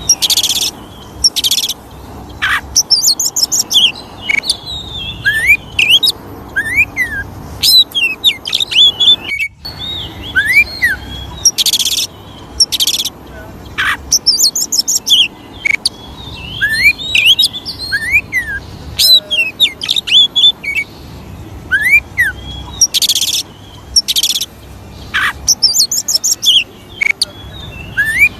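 Oriental magpie-robin song, played as a lure or training recording: a fast, unbroken run of varied clear whistles, chirps and up-and-down glides mixed with short harsh rasping notes. There is a brief break in the sound about ten seconds in.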